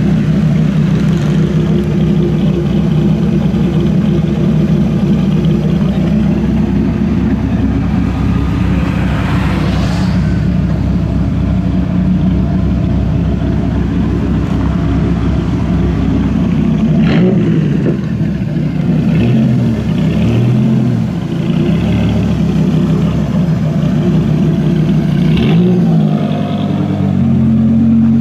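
Dodge Viper SRTX's modified V10 engine idling steadily through its exhaust, then, about two-thirds of the way in, blipped several times with the pitch rising and falling. Near the end it revs up again as the car pulls away.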